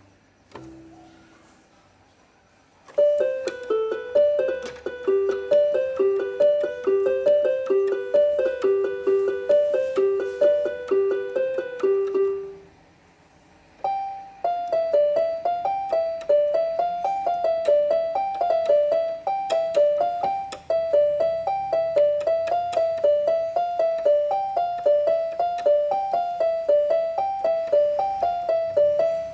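Electronic keyboard playing a short repeating figure of quick piano-like notes, which stops about halfway through. After a brief pause a faster, higher repeating figure begins.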